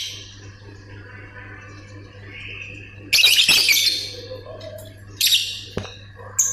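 Lovebird calling: soft chatter, then a loud harsh burst of chirping about three seconds in that lasts nearly a second, and a shorter one about five seconds in. A low steady hum runs underneath.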